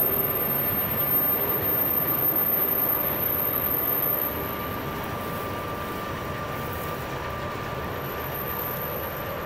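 Last container wagons of a long freight train rolling past on the rails. The noise drops about four seconds in as the tail clears. A quieter steady rumble with a thin high whine continues after that.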